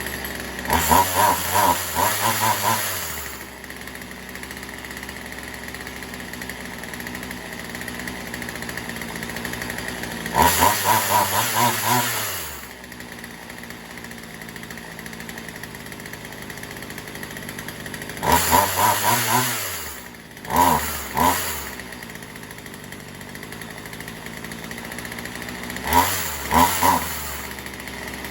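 Poulan Pro 4620 two-stroke chainsaw idling steadily, its throttle opened to full revs four times for a second or two each, with two quick blips after the third, dropping straight back to idle each time. The saw has just had its carburettor tuned, and it opens up cleanly and holds idle.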